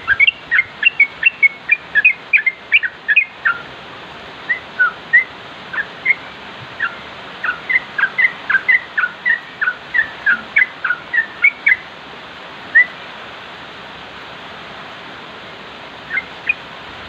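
Yellow-vented bulbul (trucukan) singing in bubbly runs of short, quick chirping notes, with a few seconds' pause near the end before it starts again.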